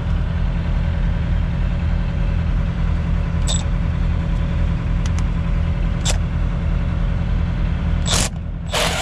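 2011 International semi tractor's diesel engine idling steadily. A few light clicks come in the middle, and two short noisy bursts come near the end.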